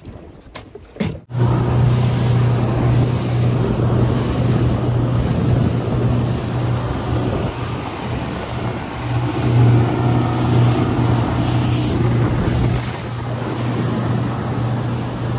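Mercury outboard motor running steadily as the boat runs under way, with water and wind noise; it comes in abruptly about a second in, after a few clicks.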